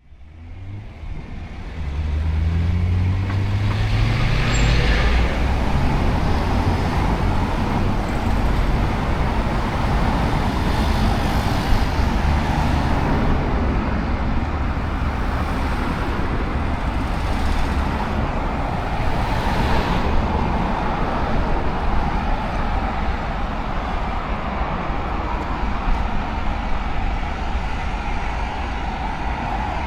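City road traffic: a steady wash of passing vehicles, fading in over the first two seconds. A few seconds in, one vehicle's engine rises in pitch as it speeds up, and cars whoosh past now and then.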